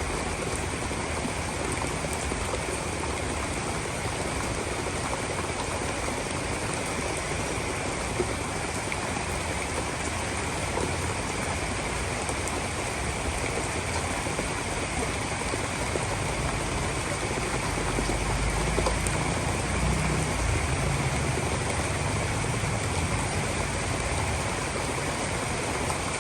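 Heavy tropical rain falling in a steady downpour. A low rumble swells up about two-thirds of the way in and eases near the end.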